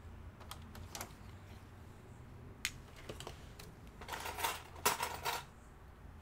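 Light clicks and taps of small laptop parts and screws being handled, then a brief rattling scrape of plastic and metal about four seconds in.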